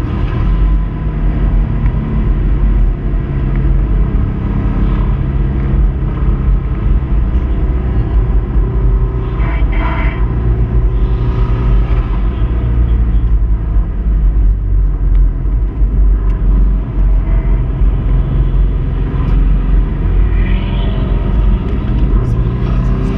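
Subaru Impreza 2.5RS's 2.5-litre flat-four engine running hard at a fairly steady pitch while the car is driven at speed, with its connecting-rod bearing failing.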